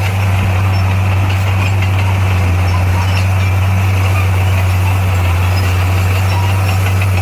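Heavy-equipment diesel engine running steadily, a constant low hum with no change in speed.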